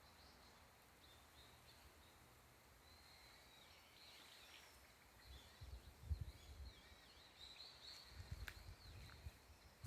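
Faint birdsong: small birds calling with high chirps and short gliding notes. From about halfway, irregular low rumbles on the microphone come in, the loudest about six seconds in.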